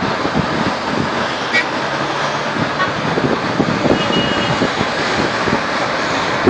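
Wind buffeting the microphone over a steady rushing of sea surf and passing road traffic, with a faint short car-horn toot about four seconds in.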